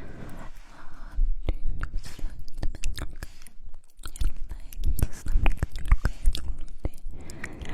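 Close-miked wet mouth sounds: a dense run of lip smacks, tongue clicks and chewing-like squelches, with a breathy stretch near the start.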